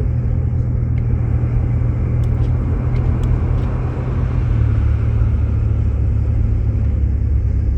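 Steady low rumble of a Jeep Grand Cherokee driving on a snowy road, heard from inside the cabin: engine and tyre noise, with a few faint clicks a couple of seconds in.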